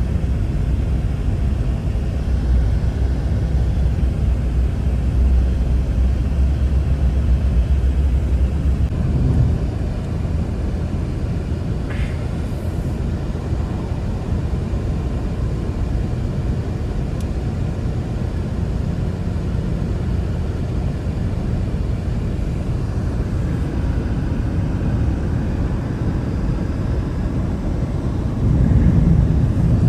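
Strong blizzard wind rumbling steadily, a deep roar that buffets the microphone, swelling louder near the end.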